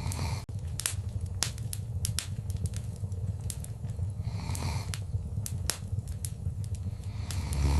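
Wood fire crackling in a fireplace: frequent sharp pops and snaps over a steady low rumble of the flames, with brief hissing swells about halfway through and again near the end.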